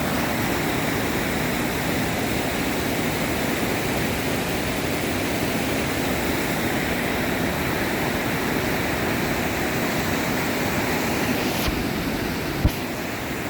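Steady rushing of a flood-swollen creek running higher than usual. A sharp knock comes near the end, a fainter click just before it.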